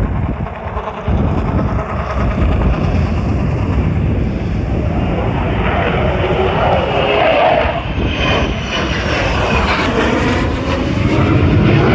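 Military aircraft engines running loud as the aircraft passes, with tones gliding downward in pitch in the second half.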